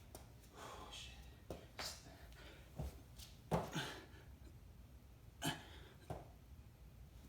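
A person breathing hard during bodyweight exercise, with short forceful exhales and grunts a second or two apart. The strongest come about three and a half and five and a half seconds in.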